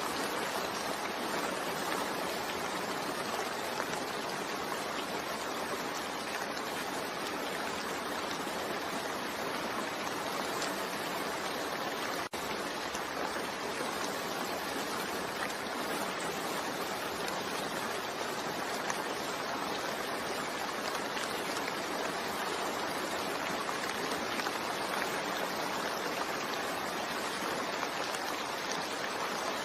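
Steady rain falling, a continuous even hiss of many drops with no letup, broken only by a momentary dip about twelve seconds in.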